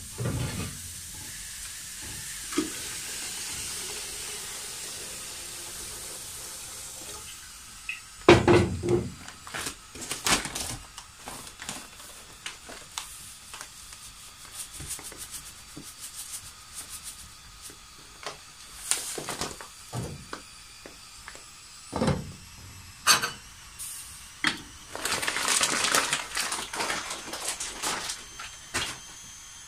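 Scattered knocks and clinks of things being handled, with a steady hiss over the first several seconds and a louder rustling, scraping stretch near the end.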